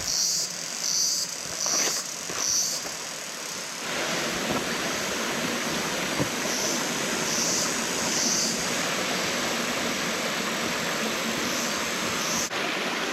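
Footsteps on a forest trail with short, repeated high-pitched calls. About four seconds in, a steady rush of water from the river cascade takes over.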